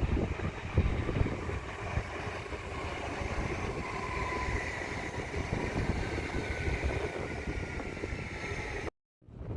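Train running past with a low rumble and faint high whining tones that sink slightly in pitch, with wind buffeting the microphone; the sound cuts off abruptly near the end.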